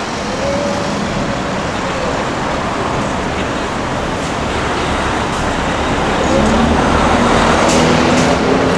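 City street traffic: a steady wash of road noise from passing vehicles, growing louder about six seconds in as a vehicle's engine comes closer.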